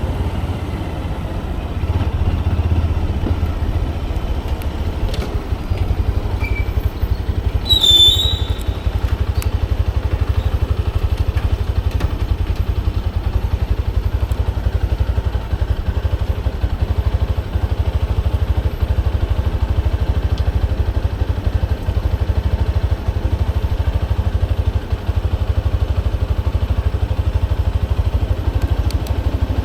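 Motorcycle engine running steadily while being ridden, heard from on the bike with a heavy low rumble. About eight seconds in there is a brief sharp, high-pitched sound.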